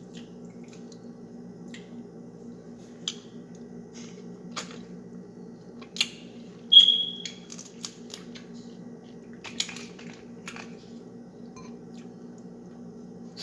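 Crab shell being cracked and eaten: scattered sharp clicks and cracks with wet, squishy eating sounds, over a steady low hum. The loudest is a short high squeaky crack about seven seconds in.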